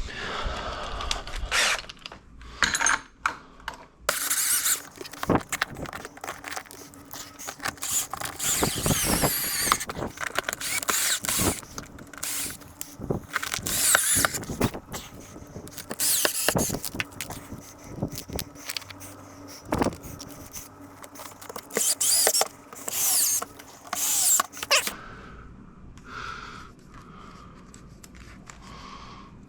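Handwork on a cover panel and wiring being refitted: a busy run of clicks, knocks and scrapes with squeaky rubbing. It dies down to quieter handling for the last few seconds.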